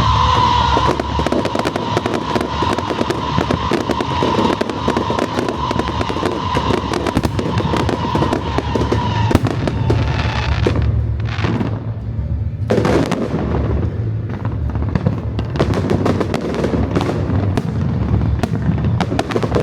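Fireworks display: a dense, continuous crackle of small bangs over low booming. A steady high tone sounds through roughly the first ten seconds, then stops.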